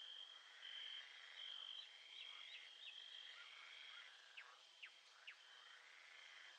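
Faint nature soundscape: a steady high-pitched trill that breaks into pulses, with short chirps and three quick falling whistles about four to five seconds in.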